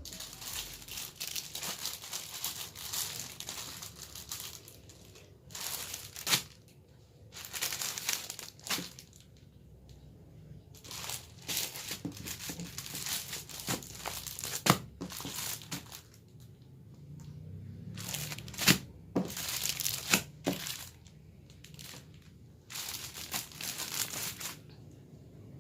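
Packaging being handled and crinkled in repeated irregular bursts, with a few sharp clicks and taps.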